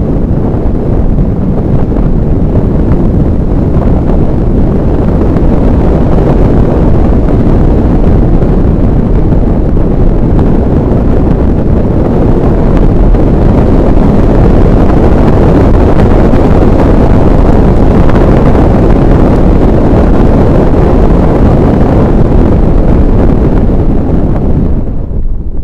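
Loud, steady wind buffeting on the microphone, a dense low noise with no clear engine note, easing slightly near the end.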